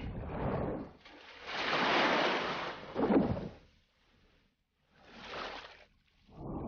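Seawater rushing and washing in several swells, like waves surging against rock, with a brief hush about four seconds in before a last, smaller swell.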